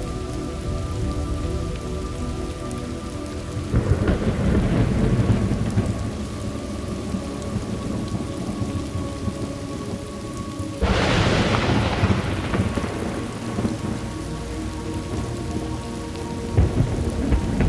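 Thunderstorm ambience: steady rain throughout, with thunder rumbling about four seconds in, a sharper, louder thunderclap about eleven seconds in, and another rumble near the end.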